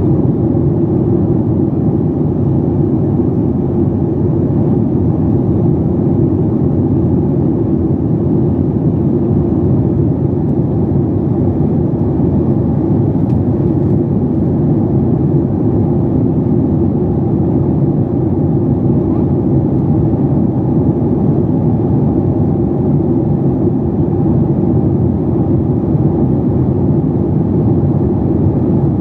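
Steady cabin noise inside a Boeing 737 MAX 8, its CFM LEAP-1B engines running: a dense, even rumble with no rise or fall in pitch.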